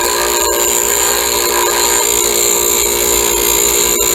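Powerhouse 8-inch, 1/2 hp bench grinder running with a steady hum while a steel chisel tip is ground against its stone wheel, giving a constant high hissing grind over the motor.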